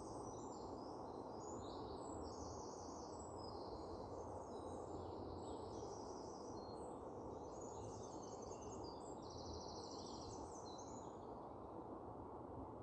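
Several small songbirds chirping and singing in quick trills, overlapping one another, over a steady low rushing background noise.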